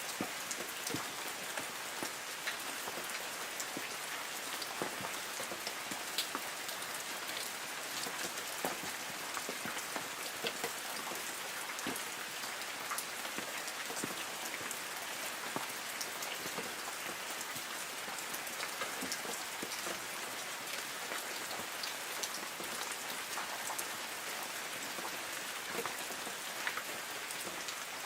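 Light rain falling on trees: a steady hiss of rain with many scattered drops pattering on leaves.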